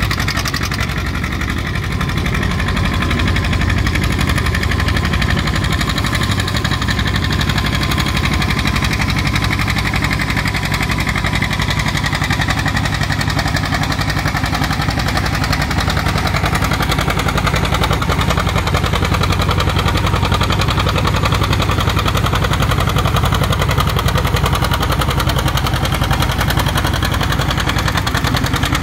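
Antique farm tractor engine running steadily, with an even low-pitched drone.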